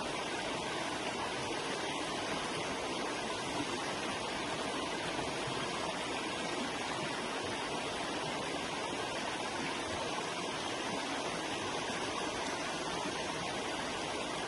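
Forest river flowing: an even, steady rush of running water.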